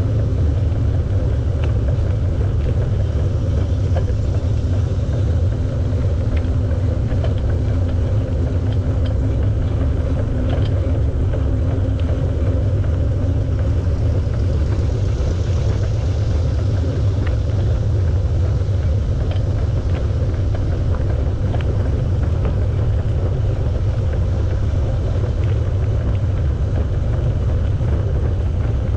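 Steady low rumble of wind buffeting the microphone of a camera on a moving bicycle, with scattered faint ticks.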